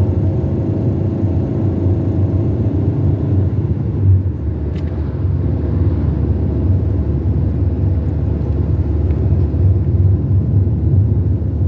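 Car driving on a road: a steady engine and tyre rumble, with a brief faint click about five seconds in.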